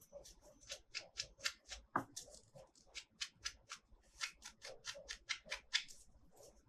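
Unboxing sounds from hands working toy packaging: a fast, irregular run of crisp clicks and snips, with one sharper tap about two seconds in.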